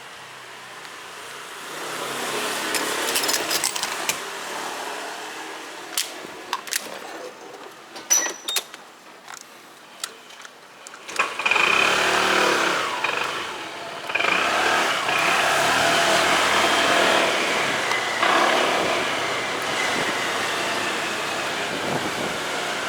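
A few sharp clicks and knocks, then about eleven seconds in a motorcycle sets off and runs steadily with a strong rush of wind.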